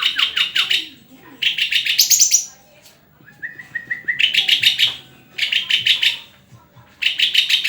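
A songbird singing in loud phrases of about a second each, every phrase a fast run of repeated high notes, with short pauses between and one rising whistled note in the middle.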